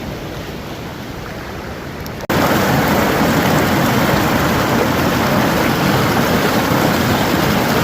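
Steady rushing noise. It jumps suddenly to a louder level about two seconds in and then holds steady.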